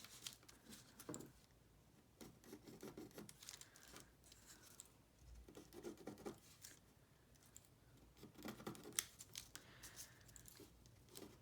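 Scissors cutting through collaged book-page paper, faintly, in several short runs of snips with paper rustling between them.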